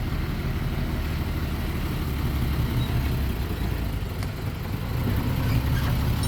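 Diesel engine of heavy earthmoving machinery running steadily with a low rumble.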